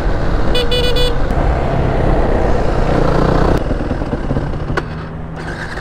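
Yamaha WR450F's 450 cc four-stroke single-cylinder engine running while ridden, with wind rush on the helmet microphone. A brief high-pitched toot sounds about half a second in, and the engine gets quieter near the end as the bike slows.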